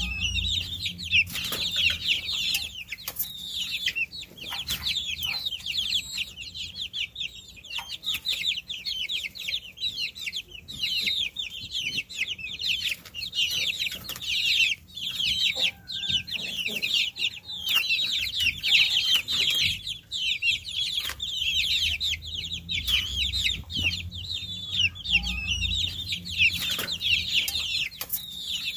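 A flock of baby chicks peeping continuously, with many short, high, falling peeps overlapping, and occasional faint clicks among them.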